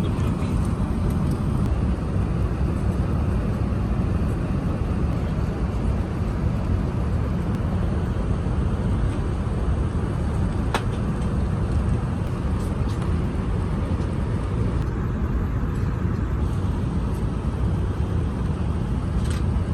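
Steady low rumble of an Airbus A380's passenger cabin in flight: engine and airflow noise heard from an economy seat. One sharp click about halfway through.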